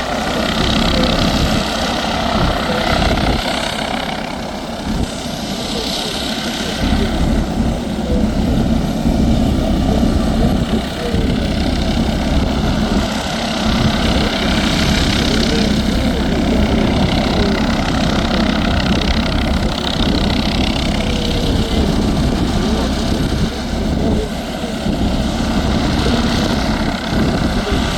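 MD 902 Explorer helicopter running steadily, its twin turboshaft engines giving a constant whine with several held tones over the low beat of the main rotor.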